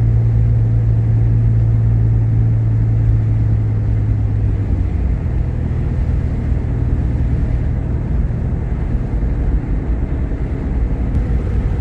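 Steady low engine and road drone of a car on the move, heard from inside the vehicle, with a strong low hum that drops away about four and a half seconds in.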